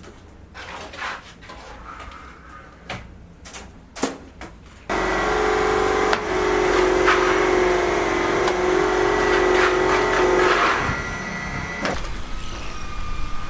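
Scattered light knocks, then about five seconds in a machine motor comes on suddenly and runs with a steady whine for about six seconds before dropping away near the end.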